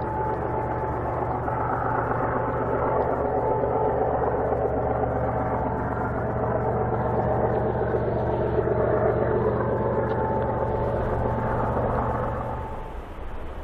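BNSF freight train rolling past: a steady heavy rumble of locomotives and cars on the rails with a thin, steady high tone over it, dropping off sharply about a second before the end.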